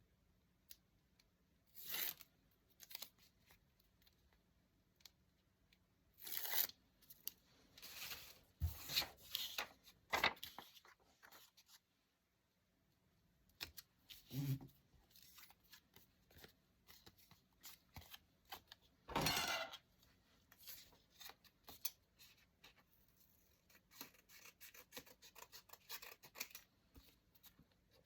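Paper being torn and cut with scissors in short separate bursts, the longest tear about two thirds of the way in, then a quick run of small snips and rustles near the end.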